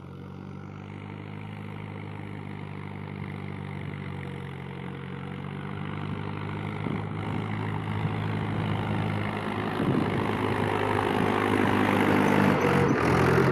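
Tractor engine running at a steady speed, growing steadily louder.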